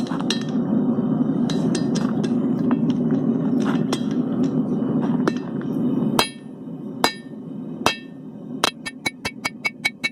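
Blacksmith's hammer striking hot steel on an anvil, each blow ringing. A steady low rush and scattered light clicks come first. From about six seconds in there are four spaced ringing blows, then quick even hammering at about four strikes a second near the end.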